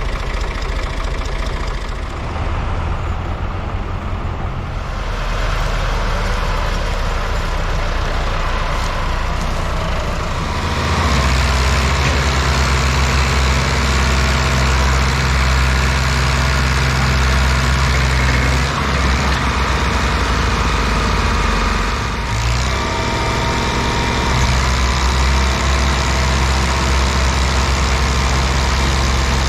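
Tractor engine running under load, getting louder about five seconds in and again about eleven seconds in, then holding steady at the higher level, as a tractor works to pull free of mud.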